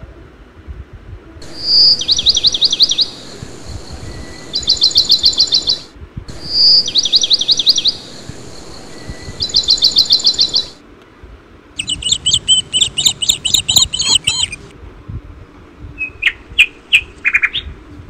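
Birdsong recording playing as a soundtrack: the same phrase, a clear whistled note followed by fast trills, plays twice, then a different bird's chattering calls, and a few short chirps near the end. The calls start and stop abruptly, as clips edited in.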